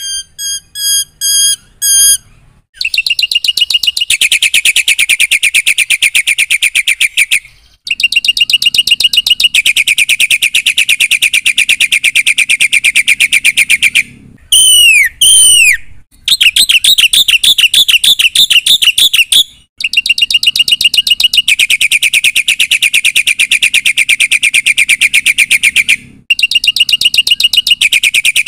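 Black-winged starling (jalak putih) in loud full song. It opens with a few short whistles rising in loudness, then runs into long stretches of very rapid chattering trills broken by brief pauses, with a couple of sharp down-slurred whistles about halfway through.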